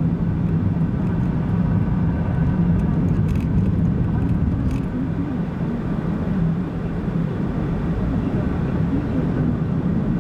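Car interior engine and road noise while driving: a steady low hum with a few faint ticks a few seconds in.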